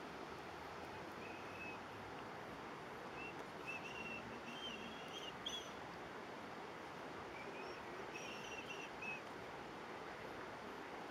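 A songbird singing short runs of high whistled notes in two spells, over a steady outdoor background hiss.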